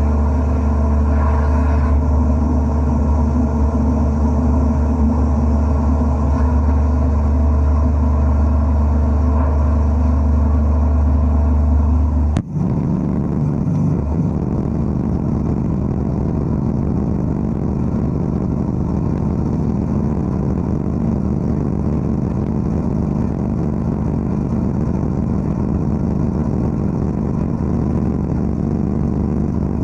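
Wet-blasting (aquablasting) equipment running: a steady machine hum, cutting abruptly about twelve seconds in to a rougher, noisier rush that runs on steadily.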